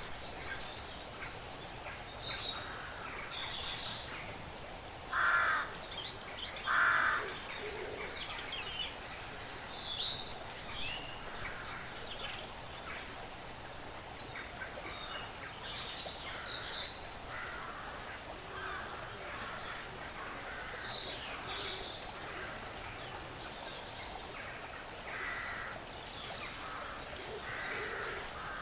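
Woodland birds chirping and calling throughout, with two loud, harsh calls about five and seven seconds in and a few weaker ones near the end.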